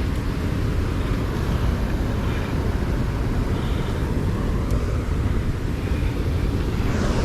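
Wind buffeting the microphone outdoors: a steady, loud, fluttering low rumble.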